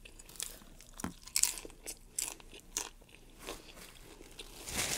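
Crisp fried corn tortilla being bitten and chewed close to the microphone: irregular crunches and crackles, the sharpest a little over a second in.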